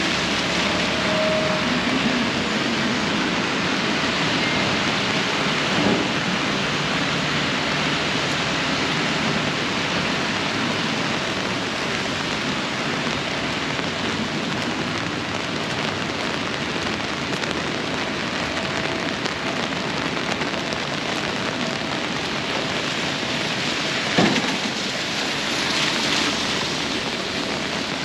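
Heavy tropical-storm rain falling steadily on pavement, a continuous hiss. There is a sharp knock about six seconds in and a louder one near the end.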